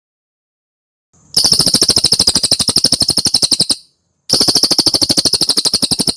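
Cililin bird's song: two long, rapid trills of sharp chip notes, about a dozen notes a second, the first starting about a second and a half in and the second just after four seconds.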